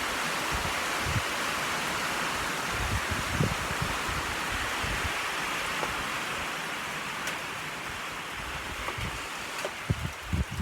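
Rain falling steadily in a shower that is picking up again: an even hiss that eases a little near the end.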